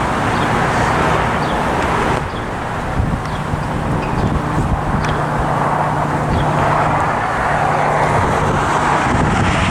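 A steady engine roar from passing vehicles that swells and eases over several seconds, with wind on the microphone.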